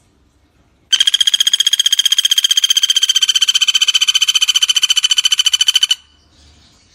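Pelatuk bawang (a small woodpecker) calling one long, rapid, even rattling trill of about thirteen notes a second, high-pitched and ringing, that starts about a second in and cuts off suddenly about five seconds later.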